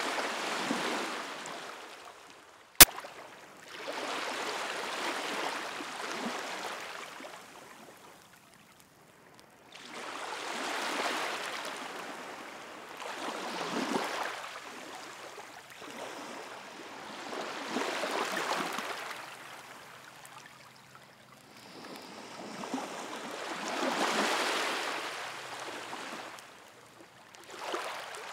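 Ocean waves washing onto the shore, surging and receding every few seconds. A single sharp pop about three seconds in, a crack from the bonfire.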